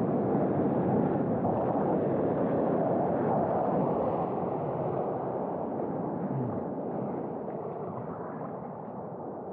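Rushing surf water and wind buffeting the microphone as a waveski rides a wave at speed, loud at first and dying away gradually over the second half.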